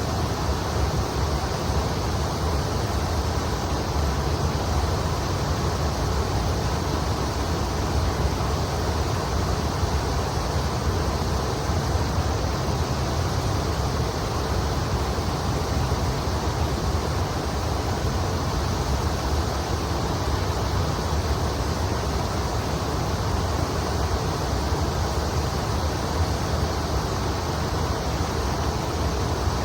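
Steady rushing of the Kamo River's water flowing past from upstream, with an even low rumble underneath and no single sounds standing out.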